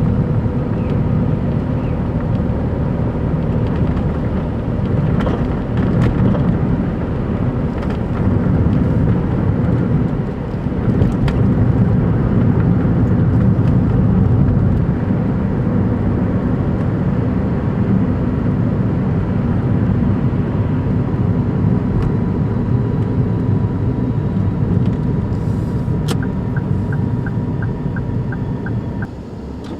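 Daihatsu Move Custom RS (L175S) three-cylinder engine running, a steady heavy low rumble carried into the body by a torn engine mount bushing, which makes the engine noisy. A short run of light, even ticks near the end.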